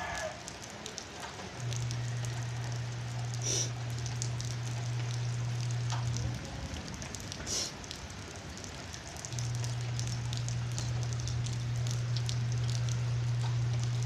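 Light rain falling, a steady hiss with scattered ticks of drops. A steady low hum comes in twice over it, from about a second and a half in to about six seconds, and again from about nine seconds on.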